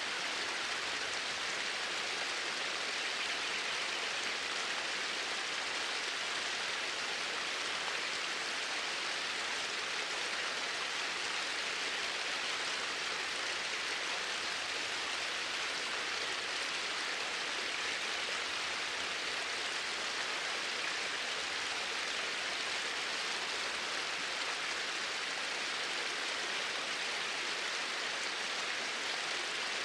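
Water flowing in a steady, even rush that does not change.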